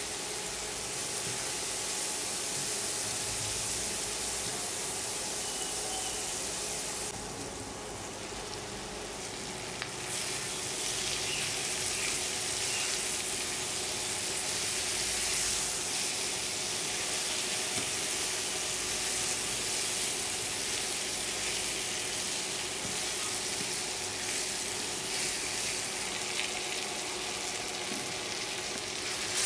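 Food sizzling steadily as it fries in hot oil in a pan, the sizzle easing off briefly about a quarter of the way through.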